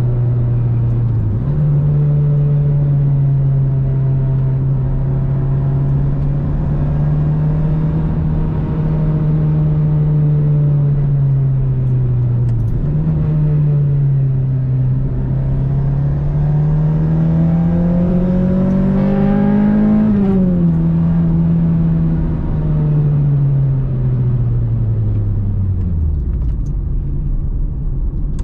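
An Acura RSX's 2.0-litre four-cylinder engine, swapped in from a 2006 RSX Type S, running under way and heard from inside the cabin. Its pitch dips and then jumps higher twice, climbs steadily for several seconds, drops sharply about twenty seconds in, then sinks away near the end.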